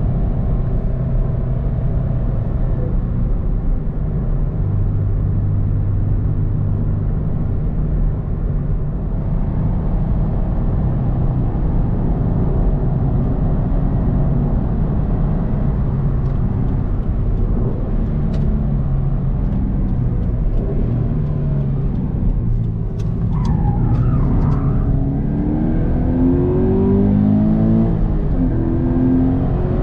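Subaru BRZ's 2.0-litre flat-four boxer engine heard from inside the cabin, running steadily under light load over tyre and road noise. Near the end it drops off briefly, then pulls harder with its pitch rising as the car accelerates.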